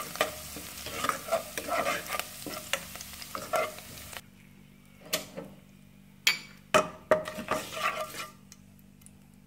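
Curry leaves sizzling and spluttering in hot oil in a non-stick pan, stirred with a metal spoon that clicks and scrapes against the pan. About four seconds in, the sizzle cuts off suddenly, leaving a few sharp taps and scrapes of the spoon on the pan.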